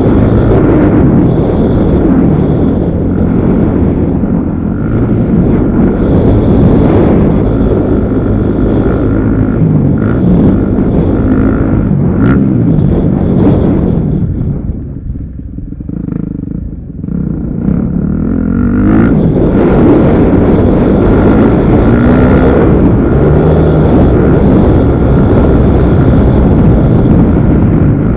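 Motocross dirt bike engine running hard and loud, its pitch rising and falling as the throttle is worked. About halfway through the throttle backs off for a couple of seconds before the engine picks up again.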